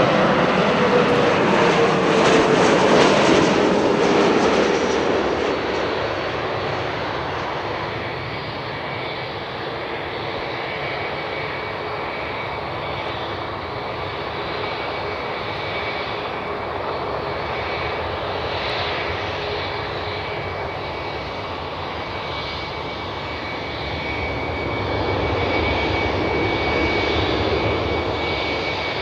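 Sukhoi Superjet 100's SaM146 turbofan engines going by at close range, their whine dropping in pitch as the jet passes, then settling to a steadier, quieter jet noise with a thin high whine. Near the end the noise swells again as another airliner's engines come closer.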